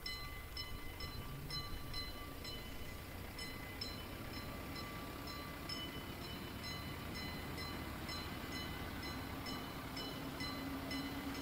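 Train nearby: a steady low rumble under a bell ringing in even strokes, about two a second, with a low engine tone rising near the end.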